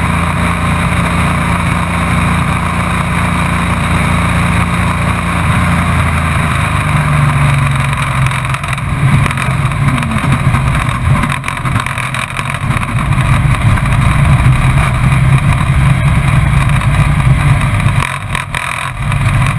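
Race truck's engine running, heard from inside the cab. The note is steady and shifts in pitch about a third of the way in, then drops away briefly near the end.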